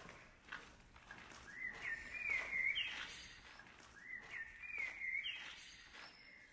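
A songbird singing two short phrases of quick, wavering notes, the first about a second and a half in and the second about four seconds in, over faint background noise.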